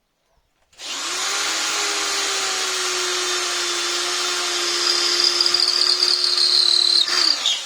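Lith LT7002 electric drill starting about a second in and running at full speed as it bores into a dry wooden rafter, a steady motor whine. The sound grows louder and sharper over the last two seconds, then the trigger is released and it spins down near the end.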